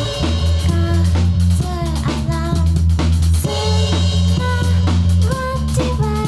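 Live rock band playing a J-pop/rock cover: drum kit, a sustained bass line, and a bending melody line over the top.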